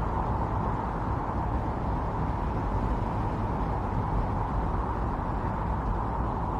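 Strong wind blowing steadily in a winter storm, a continuous rushing howl with a deep rumble underneath.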